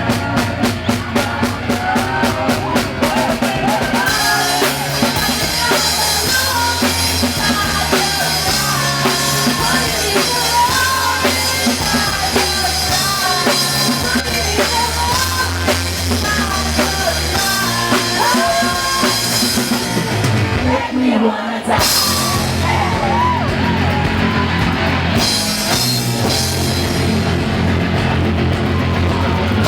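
Rock music: a band with drum kit playing loudly and steadily, with a wavering melodic lead line, and a brief break in the bass and drums about two-thirds of the way through.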